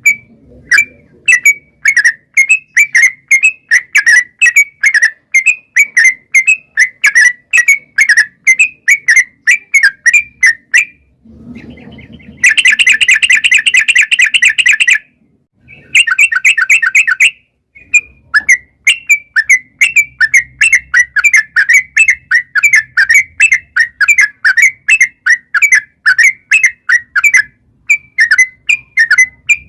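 Yellow-vented bulbul (trucukan) calling in a long, fast run of short chirping notes, about three or four a second. The run is broken about halfway by two harsh, buzzy chattering bursts, then the quick notes resume.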